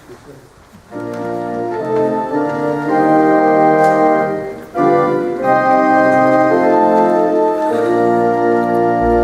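Organ playing sustained chords, starting about a second in, with a brief break about halfway through.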